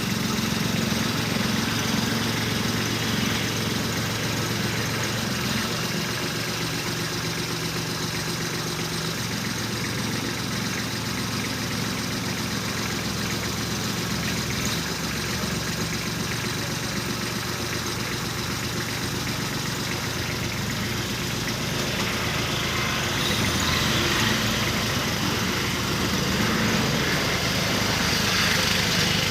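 Kubota B2441 compact tractor's three-cylinder diesel engine running steadily near idle, growing louder and busier over the last several seconds.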